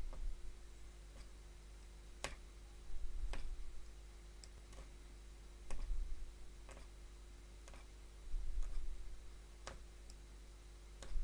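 Hollow punch needle being pushed through the stretched fabric, giving sharp, faint clicks roughly once a second. A few dull low bumps come in between, over a faint steady hum.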